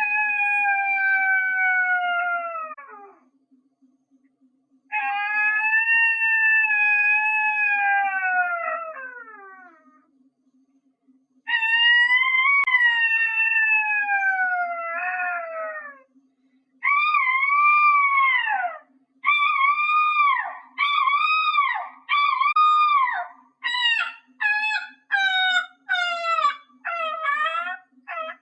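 A woman imitating an animal with her voice, in a howl-like wail: three long calls that slide down in pitch, then a run of shorter rising-and-falling calls that come faster and faster toward the end.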